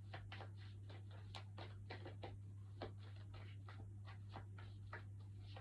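A string of faint, short clicks or ticks, several a second and unevenly spaced, over a steady low electrical hum.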